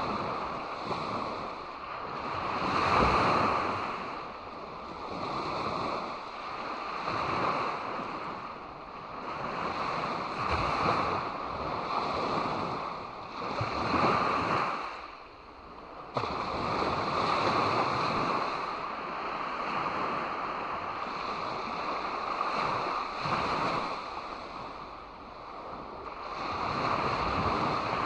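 Sea waves washing onto a beach: a rushing surf that swells and eases every couple of seconds, with a sudden rise in loudness a little past halfway.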